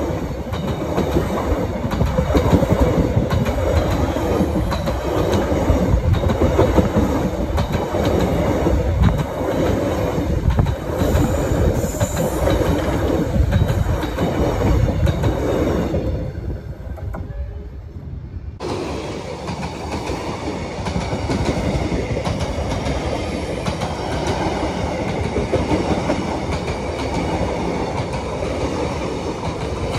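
Passenger train coaches rolling past close by, steel wheels clattering over the rails in a continuous loud rumble. The sound dips briefly a little past halfway, then carries on.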